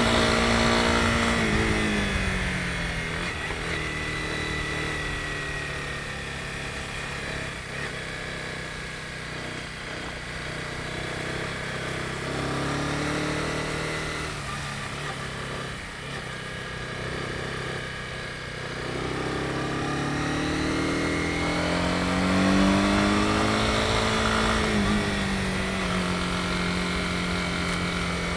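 Honda CB250R's single-cylinder engine under way. Its pitch drops over the first couple of seconds, then rises and falls several times as the throttle is opened and closed, over a steady rush of wind and road noise.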